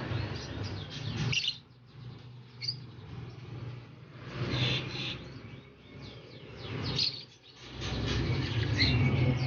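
Caged songbirds chirping and trilling in short bursts, with a low steady hum underneath at the start and again from about eight seconds in.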